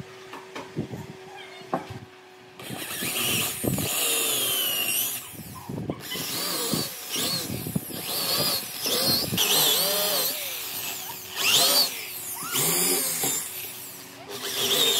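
Handheld power tool working wood in repeated passes of a second or more, its pitch wavering up and down as it bites, with short pauses between passes.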